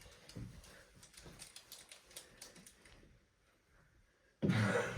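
Faint scattered clicks and taps of knee hockey sticks and ball on a hard floor, then a sudden loud sound near the end.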